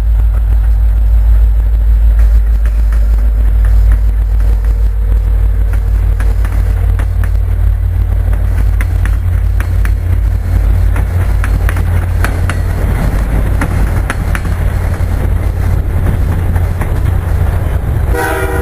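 Freight train rumbling past with scattered clicks and rattles from the wheels, then a diesel locomotive's air horn starts to sound just before the end.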